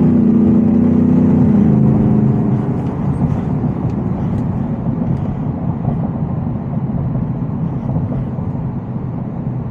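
Supercharged 5.0-litre V8 of a 2025 Shelby F-150 Super Snake pulling hard at high revs under acceleration. About two seconds in, the engine note falls in pitch and loudness and settles into a steadier, quieter drone with road noise.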